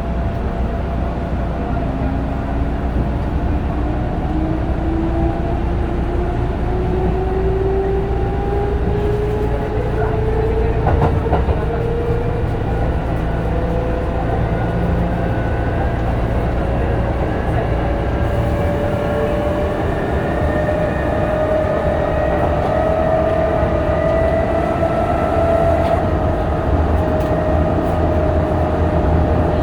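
Kintetsu 8000 series electric train heard from inside a car while running: a steady rumble from wheels and track, with the traction motor whine rising in pitch as the train picks up speed, then levelling off near the end.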